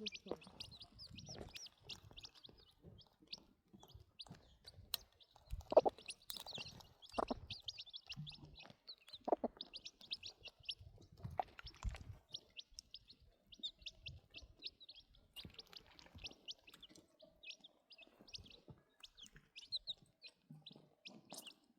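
Small birds chirping rapidly and continuously, with a few short lower calls and scattered knocks.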